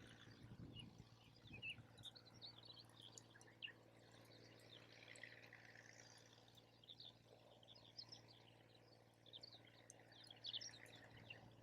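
Faint bird chirps and calls, many short notes scattered throughout and busiest near the end, with a few faint crackles from the campfire.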